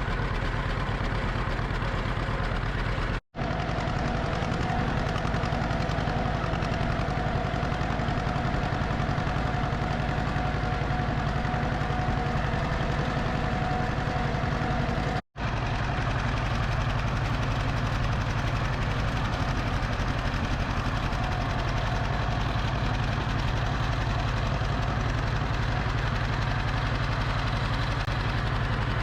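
Vintage farm tractor engine running steadily while driving. The sound cuts out completely for an instant twice.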